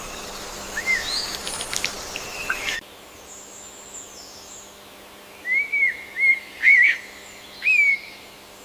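Wild birds calling: short chirps and clicks at first. Then, after an abrupt switch to a quieter background about three seconds in, a bird gives a run of five short, arched whistled notes near the end.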